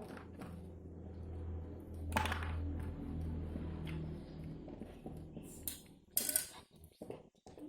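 Small hard objects clinking and clattering, with a few louder rattling bursts, over a low steady hum that stops about four seconds in.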